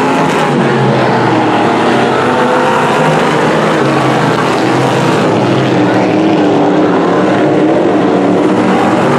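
Several dirt-track Sportsman modified race cars' V8 engines running together, loud and steady, their overlapping pitches rising and falling as they go around the track.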